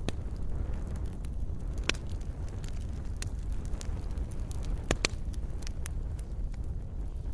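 Wood campfire burning with a steady low rumble of flames and irregular crackles and pops from the burning wood, the loudest pops about two seconds in and a close pair around five seconds in.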